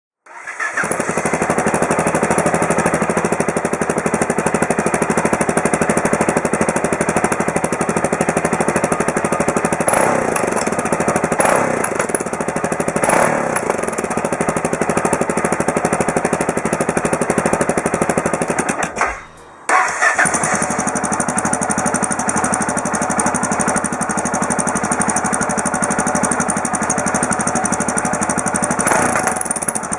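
Yamaha XT660Z Ténéré's single-cylinder engine idling through its exhaust, with a few short throttle blips around the middle. The sound drops out for a moment about two-thirds of the way through, then carries on idling.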